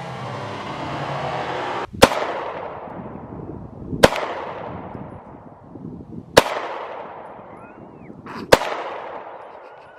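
Four single 9mm pistol shots, fired about two seconds apart, each a sharp crack followed by a fading echo.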